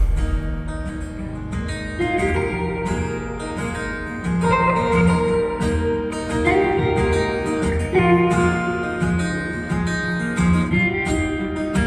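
Live folk-pop band music led by a strummed acoustic guitar, its chords changing about every two seconds over a steady bass pulse.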